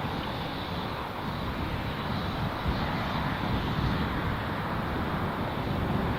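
An aircraft engine running, with strong wind buffeting the microphone in a ragged low rumble.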